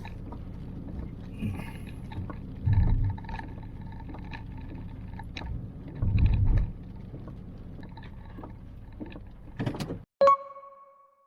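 Handling sounds from camp cooking gear: small clicks and knocks with two short low rumbles. Near the end comes one sharp strike that rings on in a clear tone and fades.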